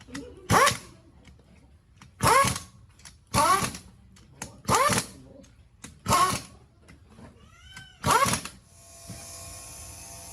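A small domestic animal, a puppy or kitten, crying out about six times in short, loud, high calls spaced a second or two apart. Near the end a steady hiss with faint tones takes over.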